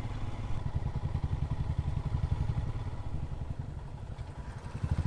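Motorcycle engine running at low revs with a steady run of firing pulses, easing off about four seconds in and picking up again just before the end.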